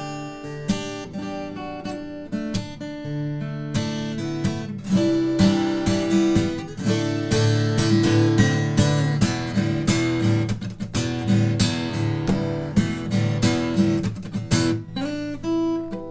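Loha GA20 acoustic guitar played unamplified, heard through a condenser microphone: lighter picked notes at first, then fuller, denser chords and strums from about four seconds in.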